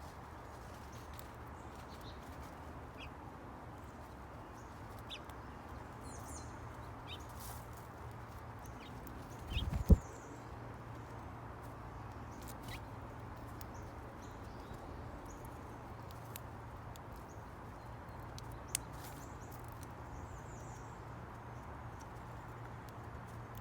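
Small birds giving short, scattered chirps at a feeder over a steady low hum. A loud low thump, the loudest sound, comes about ten seconds in, and a single sharp click comes later.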